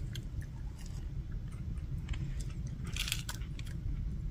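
A person chewing and biting food close to the microphone: small mouth clicks and a brief crunch about three seconds in, from a freshly fried puri that has turned a little hard and crisp.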